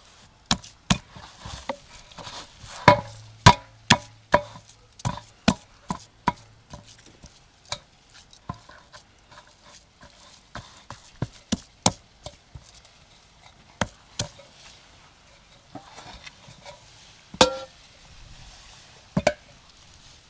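Knife chopping food on a cutting board: a string of irregular sharp knocks, one or two a second, thicker in the first half, with a couple of louder strokes near the end.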